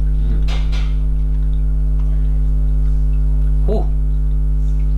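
Loud, steady electrical buzz, mains hum with a deep fundamental and a ladder of evenly spaced overtones, running under the recording; its source is unknown. A short noisy rustle about half a second in, and a brief "ooh" near the end.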